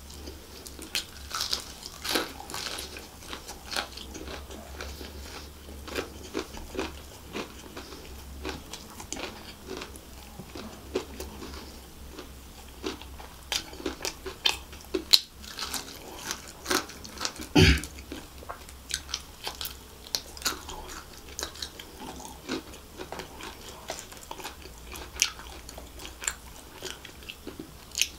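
Close-miked chewing and biting of crispy deep-fried chicken, with many sharp, irregular crackles. One crunch a little past halfway is the loudest.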